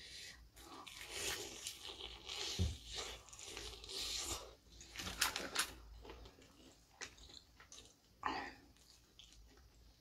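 Crunchy bites and chewing of crispy fried chicken, close to the microphone: a dense run of crunches in the first half, then softer chewing with one more crunch near the end.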